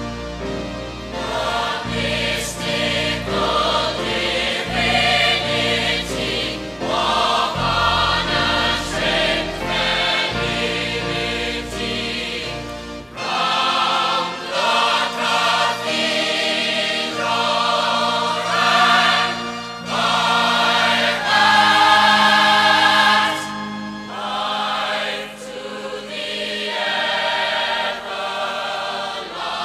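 Recorded musical-theatre music with a choir singing over an orchestral backing; the deep bass drops out about thirteen seconds in, leaving the voices over lighter accompaniment.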